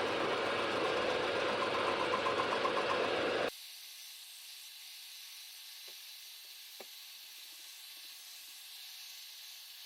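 Milling machine running and cutting a hole in steel, a loud dense noise with a short burst of rapid, even pulsing near the end. It stops abruptly about three and a half seconds in, leaving a low steady hum with two faint clicks.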